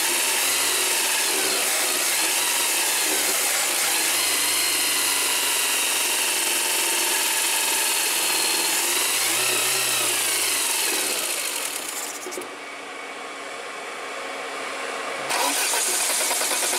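VAZ 2110's carbureted four-cylinder engine running at idle under the open hood, with a steady hiss and whine; its pitch shifts a little about ten seconds in, and the sound drops for about three seconds near the end before coming back.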